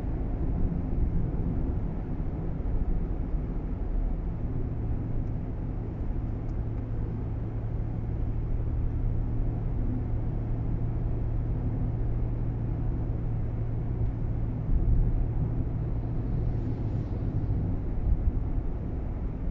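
Nissan Roox kei car heard from inside the cabin while driving: a steady low rumble of road and engine noise, with a steady hum that comes in about four seconds in and fades out near the end.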